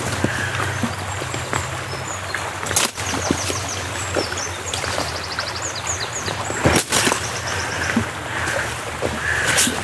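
Outdoor ambience: small birds chirping in short high series over a steady wash of water, with three sharp knocks.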